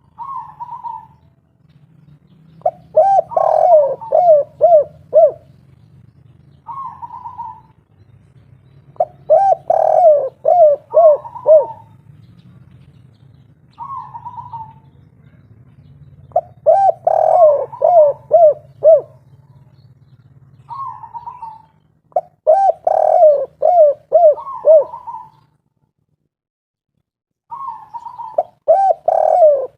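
Spotted dove (derkuku) cooing its 'kuk 3' song: five phrases, repeated about every six or seven seconds. Each phrase opens with a short higher coo and follows with a quick run of several lower, falling coos. A steady low hum lies under most of it and drops out about two thirds of the way through.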